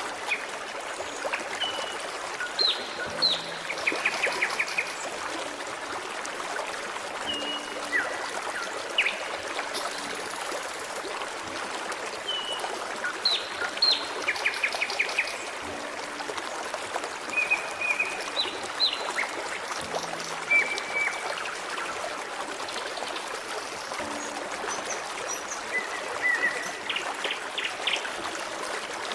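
Forest stream running steadily, with small birds singing over it: short whistled notes and quick rattling trills that come and go throughout.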